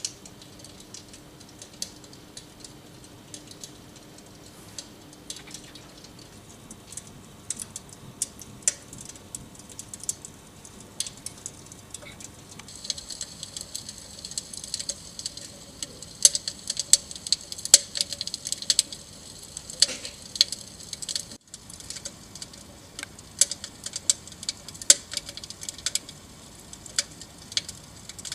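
Dimplex Opti-V electric fireplace's crackling-log sound effect: irregular crackles and pops over a soft high hiss, growing denser and louder about halfway through.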